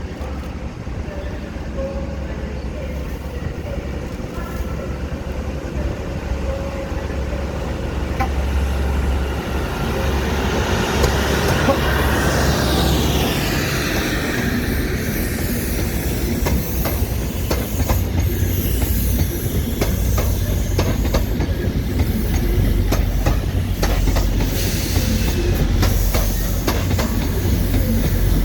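A train approaching and passing close by, getting louder about ten seconds in, then its wheels clicking over the rail joints in rapid succession.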